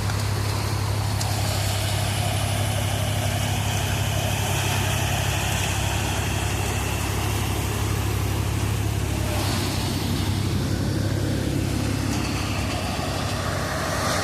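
Swaraj 855 FE tractor's three-cylinder diesel engine running steadily under load, driving a Landforce thresher, with a steady low hum and an even machine noise over it.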